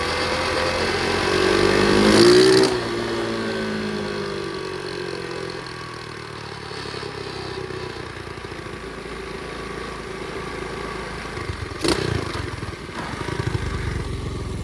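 Pit bike engine revving up for about two seconds, then dropping back and running at lower revs. Near the end there is a sharp knock, after which the engine runs with a low, quick, even putter.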